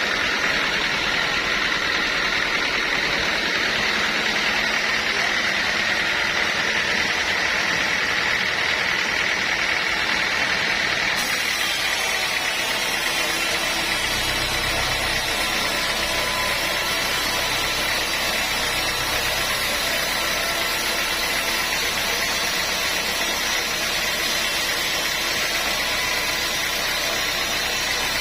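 Sawmill machinery running steadily, a continuous engine-like drone with a steady high whine; the low end grows heavier about halfway through.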